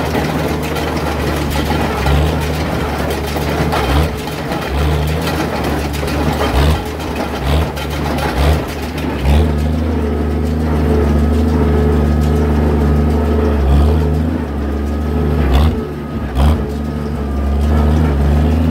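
Oliver 770 tractor's six-cylinder engine running, its pitch shifting up and down several times, with scattered sharp clanks over it.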